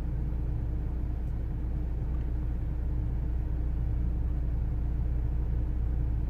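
Vauxhall Astra J 2.0 CDTI diesel engine idling: a steady low rumble with a faint constant tone.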